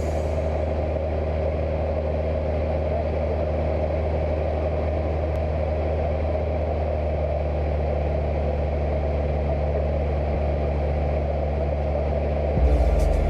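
Cessna 172 light aircraft's piston engine and propeller droning steadily in cruise.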